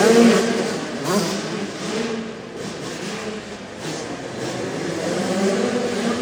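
Small youth motocross bike engine revving with a wavering pitch. It is loudest at the start, drops away in the middle, and grows louder again toward the end.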